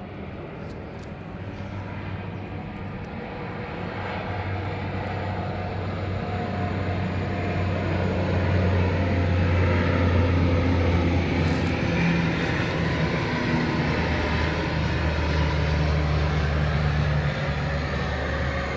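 A steady engine-like drone with a low hum, growing louder over the first eight seconds or so, then holding.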